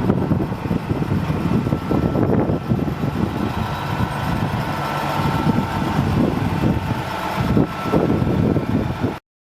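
Heavy diesel engine of a Peterbilt 379 dump truck running steadily, likely at idle. The sound cuts off abruptly near the end.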